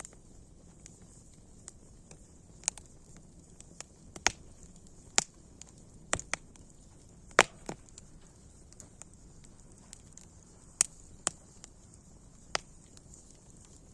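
Campfire burning, its wood crackling with about ten sharp pops and snaps at irregular intervals, the loudest about halfway through, over a faint steady hiss.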